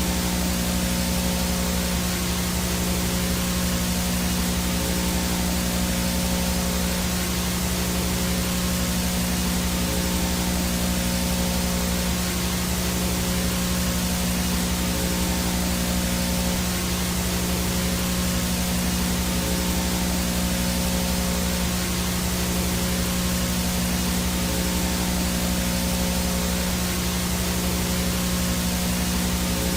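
Analog VHS 'no signal' static: an even hiss with a steady low hum underneath.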